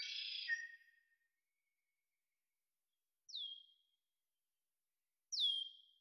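Bird calls: a short burst of chirping at the start, then two whistled notes about two seconds apart, each sliding down in pitch.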